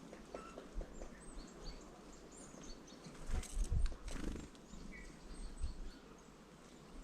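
Faint scattered chirps of small songbirds at a feeder, with a few soft low thumps about three to four seconds in.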